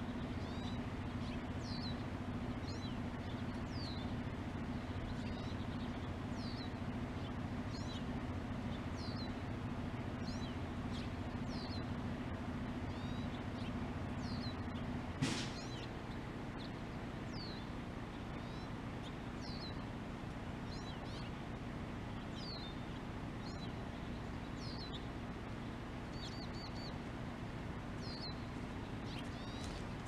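A small bird repeats a short, high, down-slurred call about once a second, over a steady low hum. A single sharp click sounds about halfway through, and the hum drops away after it.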